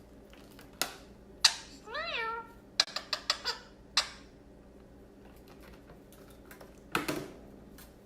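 One meow-like call, rising then falling, about two seconds in, among several sharp clicks and taps, with a short burst of noise near the end.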